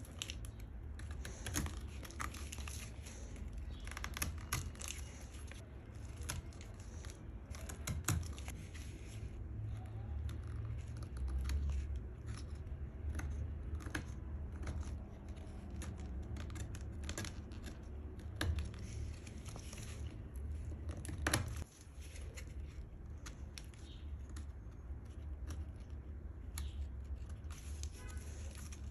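Hand work on a small piece of walnut wood: irregular scratchy scraping strokes with scattered light clicks and taps, over a steady low hum.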